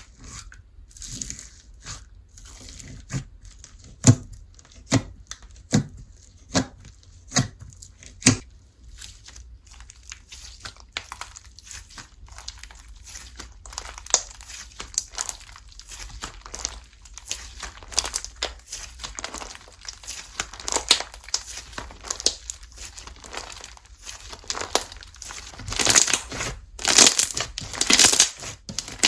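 Slime being squished, stretched and poked by hand, with a sticky crackling texture. A run of sharp pops comes about once a second in the first several seconds, and the crackling grows louder and denser near the end.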